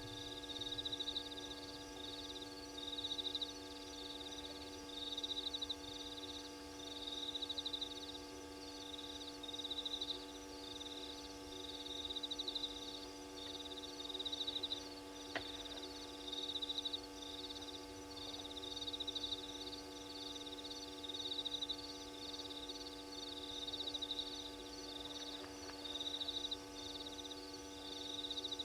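Night chorus at a waterhole: short high trills repeating about once a second, over a steady electrical hum from the camera equipment. There is one sharp click about halfway through.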